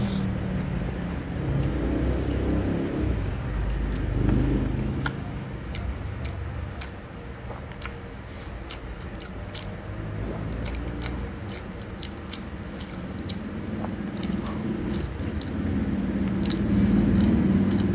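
Close-up chewing of a mouthful of boiled pork and vegetables, with many short wet mouth clicks and lip smacks over a low, uneven chewing rumble.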